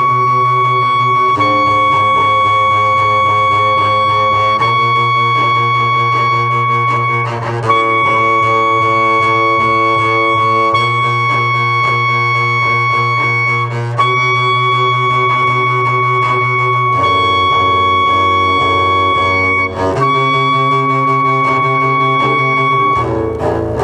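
Clarinet and double bass playing long sustained tones: a high held note is re-attacked about every three seconds while the lower notes beneath shift to new pitches at each break.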